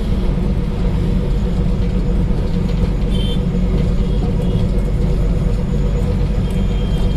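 Electric tram running on its rails, heard from inside the car: a steady low rumble with a faint steady hum. A brief high squeak comes about three seconds in.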